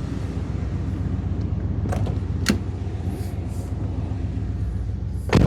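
A V8 car engine and road rumble heard from inside the cabin while driving, on a test run after the distributor cap's spark plug wires were re-seated to cure a misfire. A couple of sharp clicks come about two seconds in, and a loud knock comes near the end.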